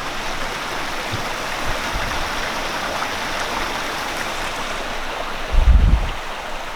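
Steady rush of flowing water from a stream. A low thump comes about five and a half seconds in, louder than the water, with fainter ones near the second mark.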